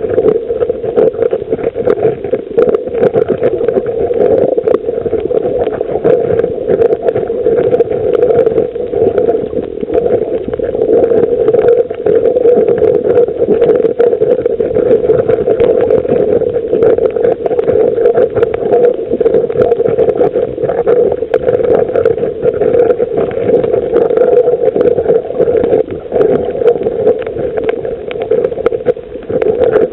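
Underwater sound on a coral reef: a dense, steady crackle of fine clicks over a continuous drone.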